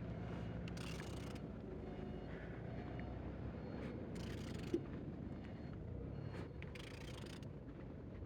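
OM646 four-cylinder diesel engine being turned over by hand, turning freely: three short rushing sounds about three seconds apart over a low steady hum, with one sharp click about halfway through.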